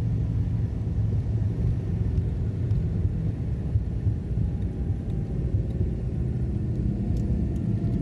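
Cabin drone of a Cessna 402's twin piston engines, a steady low rumble with an even engine note.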